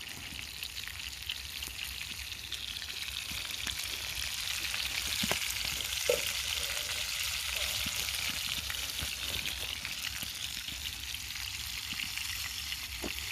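Bacon-wrapped burgers sizzling and spitting in a cast-iron pan over a campfire: a steady crackling hiss full of small pops, with one sharper pop about six seconds in.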